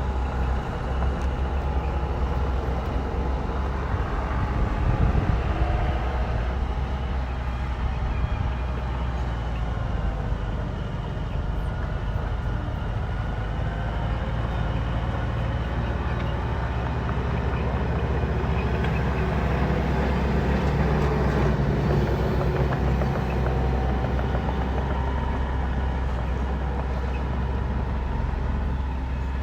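Bulldozer's diesel engine running under load, a heavy continuous rumble whose pitch rises and falls as it works.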